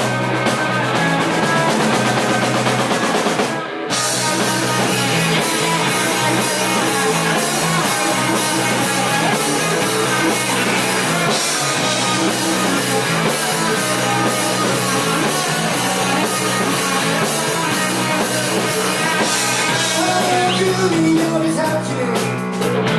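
A band playing a rock song live, with drums and guitar; the music drops out briefly about four seconds in.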